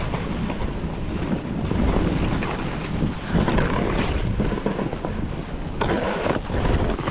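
Snowboard sliding over snow, a continuous rushing scrape that swells and fades with the turns, with wind buffeting the microphone.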